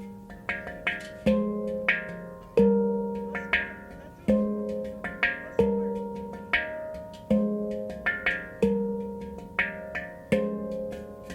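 F minor handpan played by hand: a flowing phrase of struck, ringing notes that each fade away, a low note returning about every one and a half seconds with quicker, quieter higher notes between.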